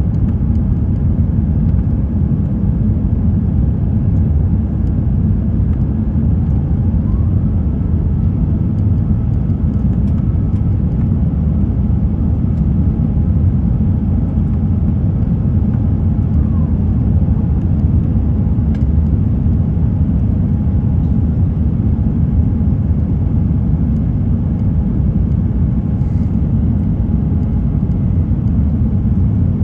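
Steady cabin noise inside an Airbus A350-900 in flight: the low rumble of its Rolls-Royce Trent XWB engines and airflow. A faint tone rises about seven seconds in, holds, and slides back down about sixteen seconds in.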